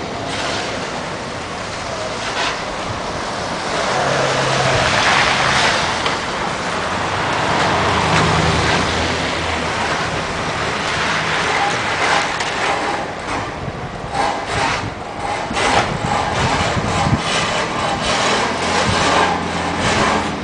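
Street traffic: vehicles passing one after another, their tyre hiss swelling as each goes by, with a low engine hum under it.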